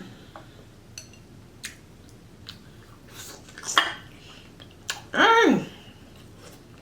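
Close-miked chewing and wet mouth clicks from eating seafood boil, with a short vocal hum that falls in pitch about five seconds in.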